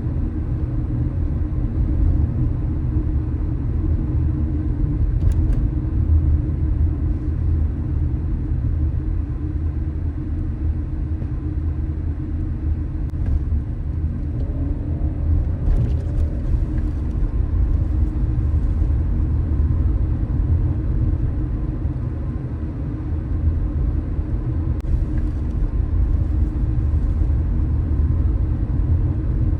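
Car driving on city streets: a steady low rumble of road and engine noise, with a few faint short clicks.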